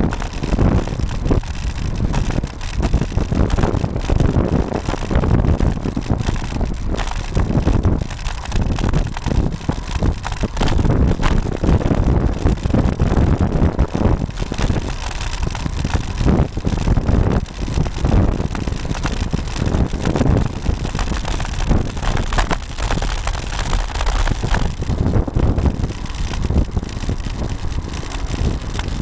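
Wind buffeting the microphone of a camera mounted on a moving road bike, with a loud, uneven rumble full of short knocks and rattles from the ride.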